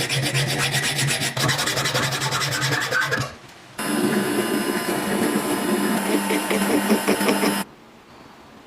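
Power tool with a steady motor hum rasping against a surface during restoration work, in two runs: a short break a little after 3 seconds in, and it stops about 7.5 seconds in.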